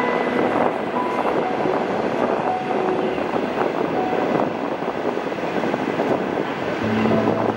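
Electric locomotive hauling passenger coaches past, a steady rumble of wheels on the rails. A low steady tone comes in near the end.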